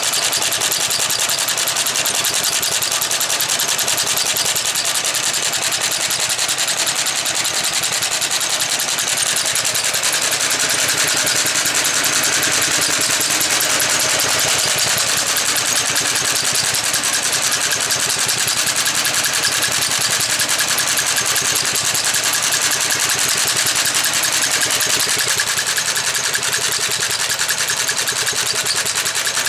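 Motor Sich walk-behind tractor's engine running steadily, driving an Artania MA 300 sickle bar mower.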